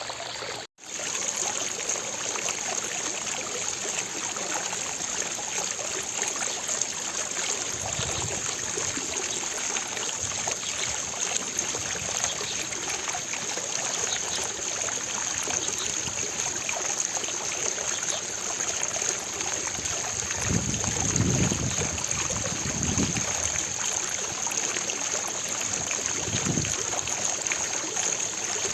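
Fountain water splashing and falling steadily into its basin, an even rushing noise. It cuts out for a split second about a second in, and a few soft low rumbles swell up in the second half.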